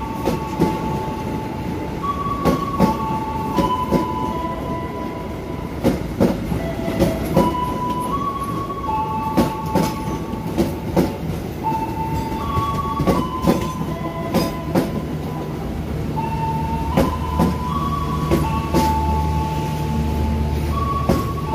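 Passenger train wheels clacking over rail joints in an irregular string of sharp knocks, with a deeper rumble building about three-quarters of the way through. A repeating tune of steady stepped tones plays over it.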